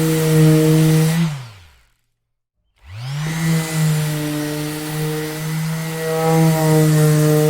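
Electric orbital sander running with a steady motor hum, switched off about a second in so that it winds down in pitch to silence, then switched back on a moment later, spinning up quickly and settling back into its steady hum.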